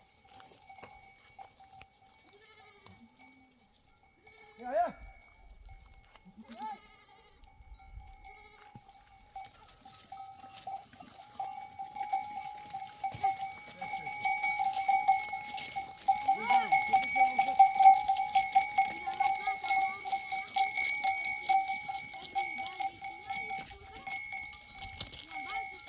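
Livestock bells on a grazing flock of sheep clanking and ringing, growing louder from about ten seconds in as the animals come closer, with occasional bleats.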